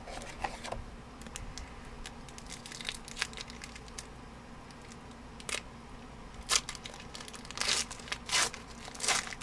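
A trading-card pack wrapper crinkling and tearing as it is opened and the cards are handled, in a string of short crackles that grow louder in the last few seconds.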